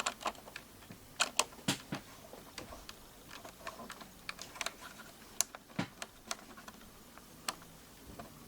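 Paper being handled and folded by hand: scattered, irregular sharp clicks and crinkles, a cluster of them about a second in and another sharp one past the middle.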